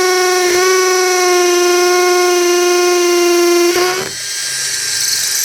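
Ingco CIDLI20668 brushless cordless impact drill running in hammer mode, drilling into brick with a 6mm bit: a loud, steady high-pitched buzz. A little before four seconds in the tone breaks off and gives way to a hissier whirr.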